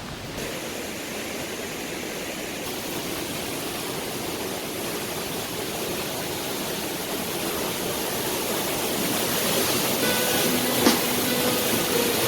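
Steady rushing of a waterfall, slowly growing louder; background music comes in near the end.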